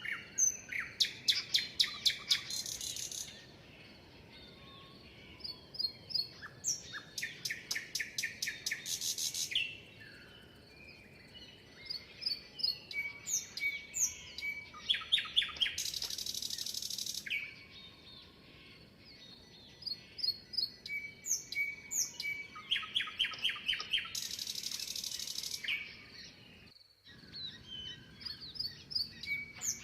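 Several songbirds singing and calling, with short whistled chirps and fast trills of repeated notes. Two hissing, buzzy phrases come about 16 and 25 seconds in.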